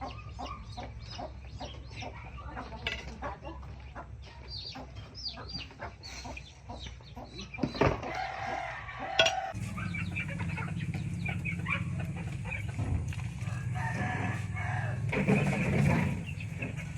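Chickens clucking, with a rooster crowing about eight seconds in. From about halfway a steady low hum sets in under the birds.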